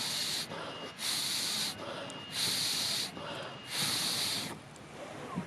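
Four hissing puffs of air blown into a campfire, each under a second, spaced about a second apart, over the low sound of the fire.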